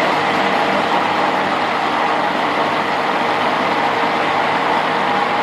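Electric stick blender running steadily in a cup of soap batter, a continuous even motor whir with a faint hum.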